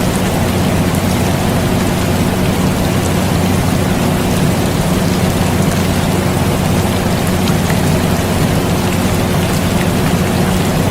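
Air conditioner running with a steady low hum, layered with steady rain falling.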